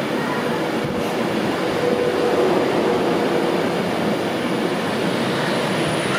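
Passenger train running along a station platform: a steady rolling noise with a faint steady hum.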